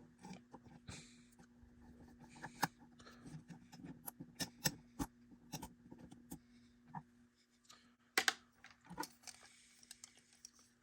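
Small screwdriver working a screw and handling the parts of an HO scale model railcar's die-cast chassis: a scatter of sharp, irregular clicks and ticks, with a faint steady hum beneath.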